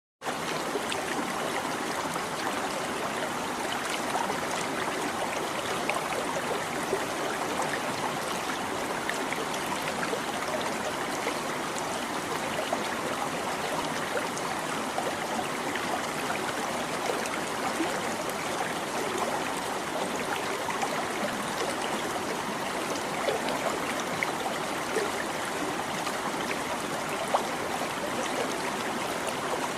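A small stream babbling and trickling over rocks, a steady, even rush of water with little splashes and drips.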